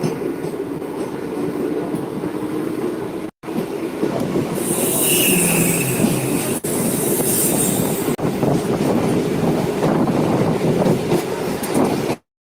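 Train running on the rails: a continuous rumble of wheels on track with clickety-clack, and a high wheel squeal from about four and a half to six and a half seconds in. The sound cuts out briefly about three seconds in and again near the end.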